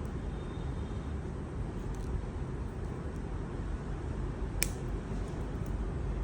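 Steady low rumble of street traffic, with one sharp click about four and a half seconds in.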